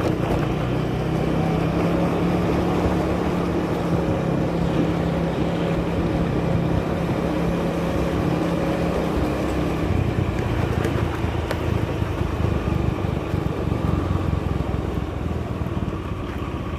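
Motorcycle engine running steadily while riding, with wind noise on the microphone; the engine note drops about ten seconds in.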